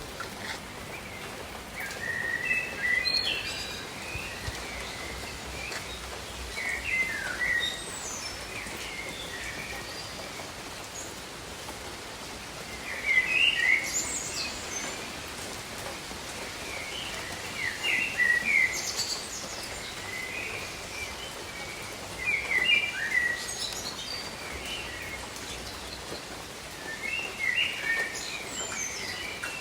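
Steady rain falling, with birds calling in short chirping phrases that come back about every four to five seconds.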